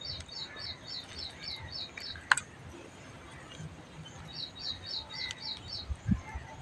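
A bird calling in fast runs of short, high chirps, about four a second, in two bouts with a pause between. A single sharp click about two seconds in.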